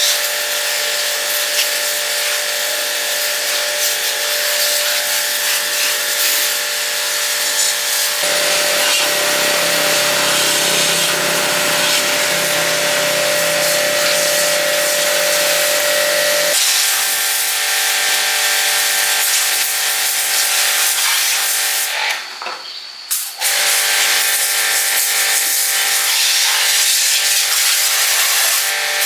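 Water spray hissing steadily while a vehicle is washed, over the steady hum of a washer's motor. The motor runs deeper from about 8 to 16 seconds in, and the spray cuts out briefly about 22 seconds in.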